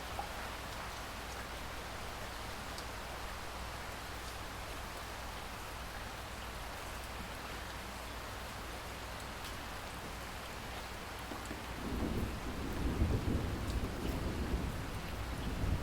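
Steady rain falling, with a few scattered drop ticks, and thunder rumbling in low about twelve seconds in, the loudest part.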